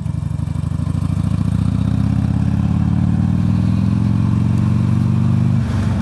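Motorcycle engine pulling under throttle, its pitch rising steadily for about five seconds, then dropping suddenly near the end.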